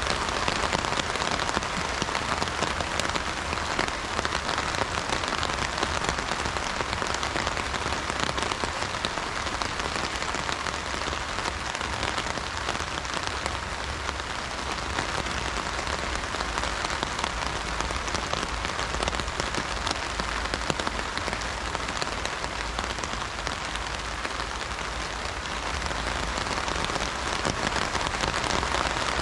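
Heavy rain drumming steadily on an umbrella canopy, a dense patter of drops with no thunder.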